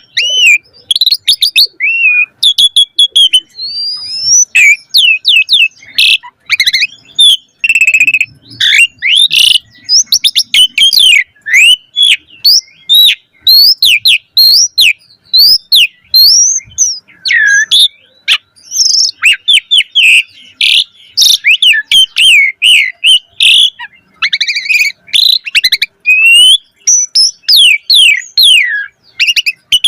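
Asian pied starling (jalak suren) in full song: a fast, unbroken jumble of varied whistles, rising and falling glides and clicking chatter, its song packed with many different phrases.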